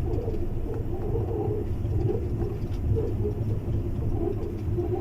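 Steady low rumble of a vehicle on the move, with uneven murmuring tones in the low middle over it.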